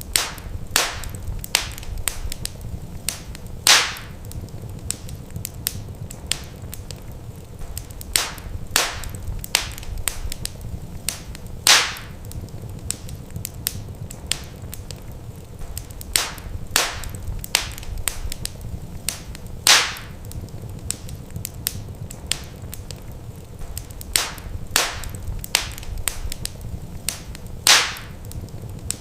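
Wood fire crackling in a fireplace: sharp pops and snaps over a steady low rumble, with the same cluster of pops recurring about every eight seconds.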